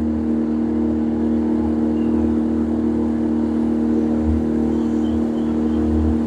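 Boat engine running steadily, a constant hum with a low rumble underneath.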